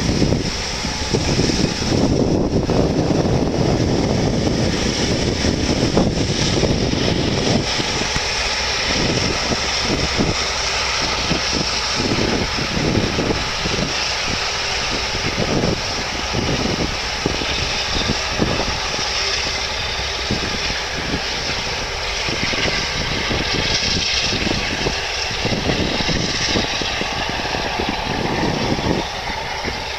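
Jet engines of an Airbus A380 running: a loud, continuous rush with a steady high hiss on top, the low rumble swelling and dipping irregularly.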